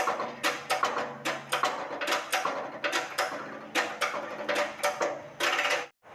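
Rapid, irregular metallic clicking and knocking, a few strikes a second, from pressing a new ABS-type wheel bearing into a Toyota Innova's wheel hub. It cuts off suddenly near the end.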